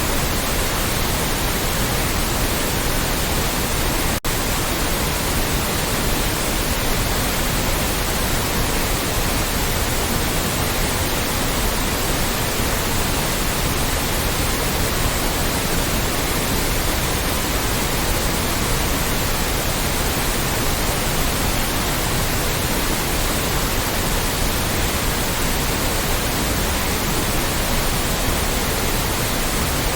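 Loud, steady white noise, an even hiss across the whole range, with a split-second dropout about four seconds in.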